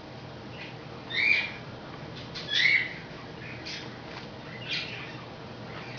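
A pet bird calling: two loud, short chirps with a quick sweep in pitch, about a second and a half apart, followed by fainter chirps.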